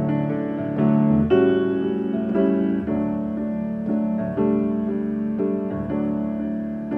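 Piano playing a slow instrumental passage between sung verses, with held chords and new notes struck about once a second.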